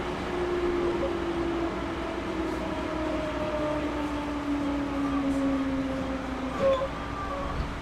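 Series 211-5000 electric multiple unit heard from inside the passenger car, running with a steady rumble of wheels on rail. A motor and gear hum falls steadily in pitch as the train slows. A small knock comes near the end.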